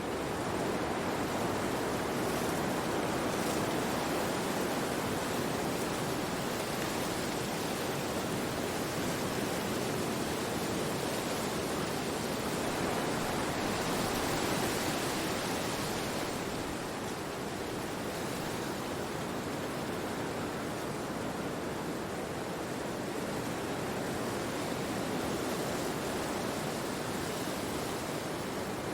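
Wind rushing through forest trees: a steady, even rush that swells briefly about halfway through.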